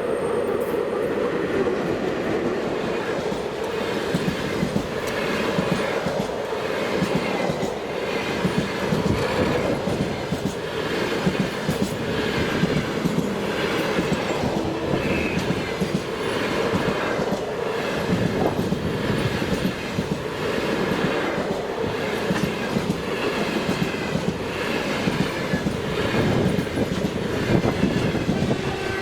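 Train cars rolling past at speed, their wheels clacking over rail joints in a steady, regular rhythm.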